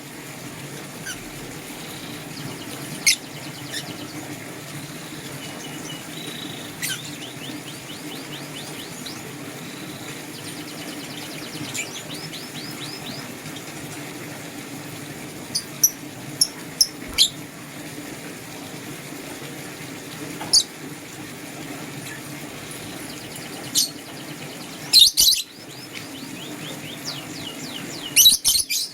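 Lovebirds chirping: scattered sharp, high chirps with short runs of faint, rapid chatter in between, and two loud bursts of chirps near the end, over a low steady hum.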